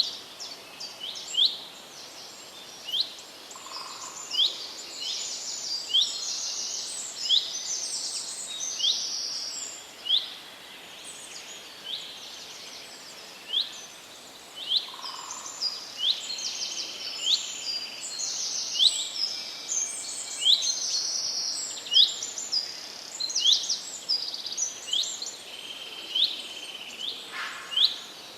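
Songbirds singing in a forest chorus: short, high chirps repeated about once a second, mixed with quicker trilled phrases, over a faint steady hiss.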